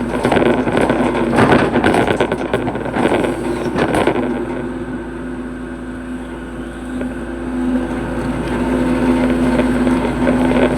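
Hitachi hydraulic excavator's diesel engine running under load as it digs, with clattering in the first few seconds. The engine eases off around the middle, then picks up again.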